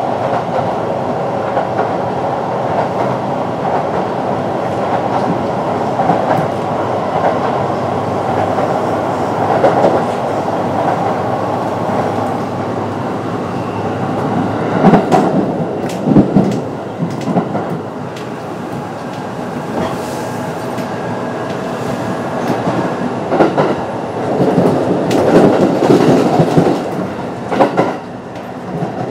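Kintetsu 9020 series electric train running at speed: a steady rumble of wheels on rail, with bursts of clatter as the wheels pass over rail joints about halfway through and again near the end.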